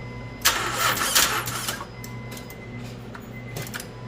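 Honda Pilot 3.5L starter motor cranking the engine for about a second and a half, starting about half a second in, then dropping away; it barely turns the engine over, the sign of a weak starter motor near failure.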